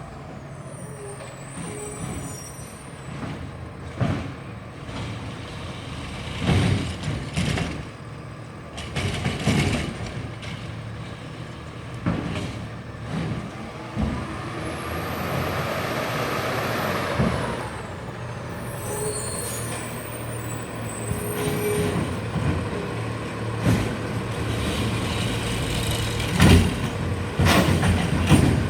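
Garbage truck running, its engine humming steadily under repeated clanks and bangs and hisses of air. A high whine rises and falls in the middle.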